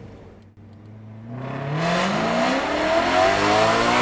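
BMW E92 M3's S65 V8 through a Valvetronic Designs stainless exhaust with the valves open, heard from inside the cabin. It idles low, then accelerates hard from about a second and a half in, the exhaust note rising steadily and getting loud.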